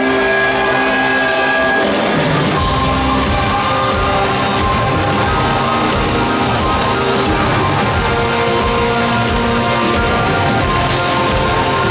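Live rock band playing the opening of a song. Sustained held chords for about two seconds, then the full band with drums comes in loud and keeps a steady beat.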